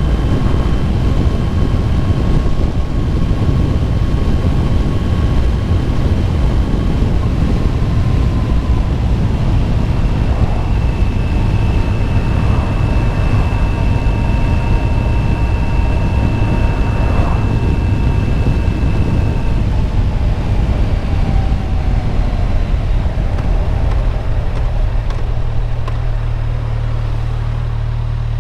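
Motorcycle riding along: engine running under a steady rush of wind and road noise. Near the end the rush eases and a steadier low engine hum remains as the bike slows.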